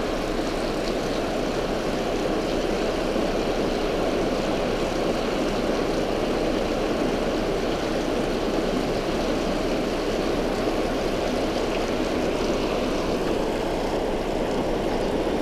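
Water rushing over a spillway: a steady, unbroken roar.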